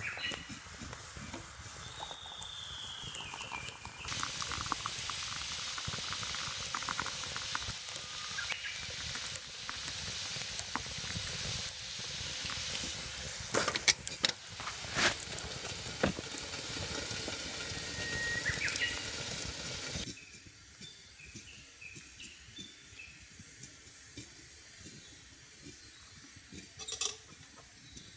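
A steady, loud sizzling hiss starts sharply about four seconds in and cuts off at about twenty seconds, with a few sharp clicks in the middle. A bird calls briefly about two seconds in and again just before the hiss stops, and small birds chirp faintly once it has stopped.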